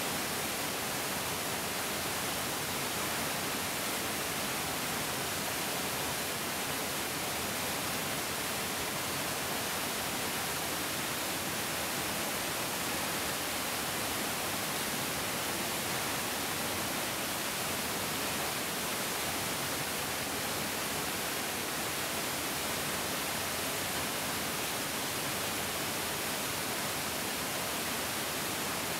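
Mountain stream rushing over rocks, a steady, even hiss of flowing water.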